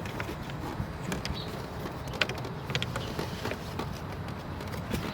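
Plastic dashboard side cover of a Chevrolet Cruze being handled and fitted back in place: a few light plastic clicks and knocks, with a quick cluster of clicks about two seconds in, over a steady background hiss.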